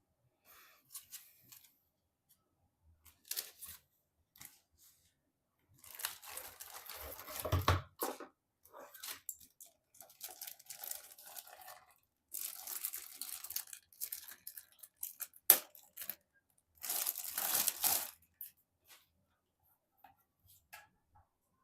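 Packaging being handled, torn and crumpled in three main bursts, with a sharp click partway through and a short low thump during the first burst.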